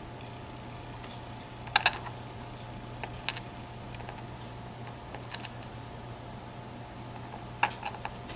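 Light clicks and taps of the tiny sliders of a disassembled EVVA ICS lock being handled, turned over and set down, in short clusters about every two seconds over a faint steady hum.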